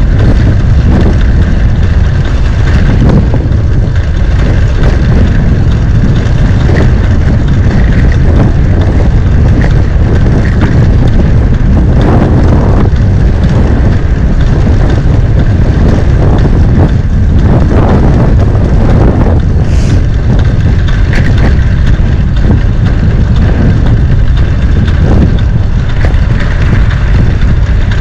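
Wind buffeting the microphone while riding a bicycle: a loud, steady low rumble with no breaks.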